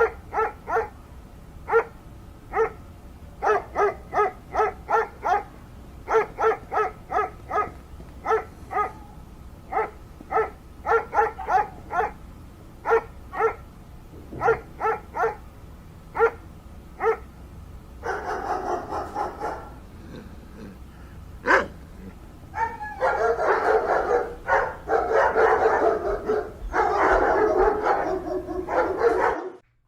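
An animal calling in quick runs of short, pitched calls, about four a second with pauses between runs. Later come longer, unbroken calls, with one sharp crack in between.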